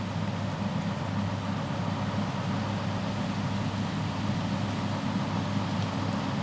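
New Holland CR8090 combine running steadily under load while harvesting corn, a continuous low engine and machinery drone.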